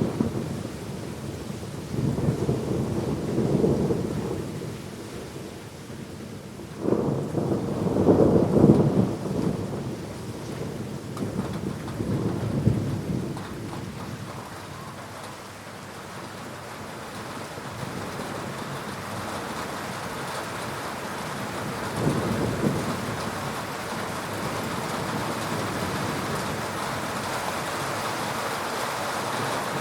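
Thunder rumbling again and again over steady rain. A peal breaks sharply about seven seconds in and is the loudest, with smaller rumbles before and after it and one more about twenty-two seconds in; the rain's hiss grows louder toward the end.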